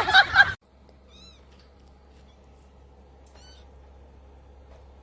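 A cat meowing loudly, its call bending in pitch and cutting off sharply about half a second in. After it comes a quiet low hum with two faint, short, high chirps.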